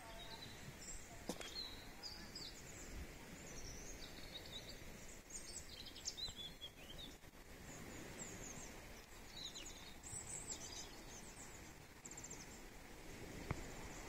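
Small songbirds chirping and twittering in many short calls, faint over a low outdoor background hiss. A sharp click sounds about a second in and another near the end.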